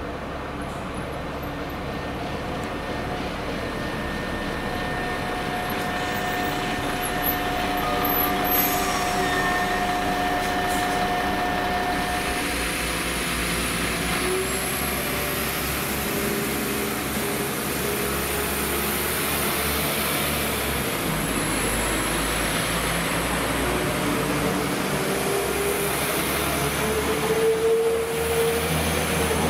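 Diesel train running at a station, its engine tones steady while the sound grows slowly louder, with a rising whine near the end.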